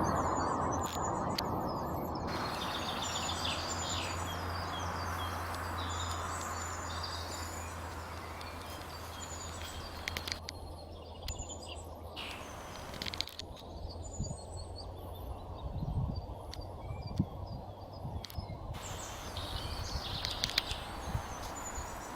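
Woodland ambience: small birds chirping and singing in short scattered phrases over a steady background hiss and a low hum that fades out about halfway through.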